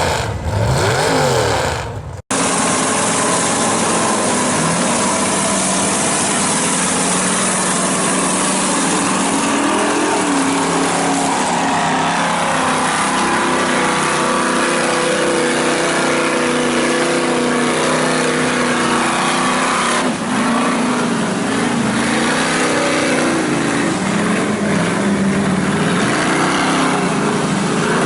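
Ford mud truck engines running hard and revving, their pitch rising and falling, over a steady loud rush of noise. The sound cuts abruptly to a new section about two seconds in.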